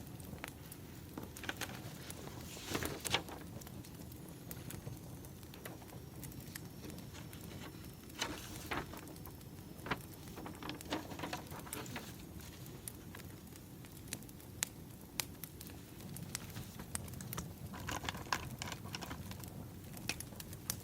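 Wood fire crackling: irregular snaps and pops over a low, steady rush of burning logs, with a few louder pops.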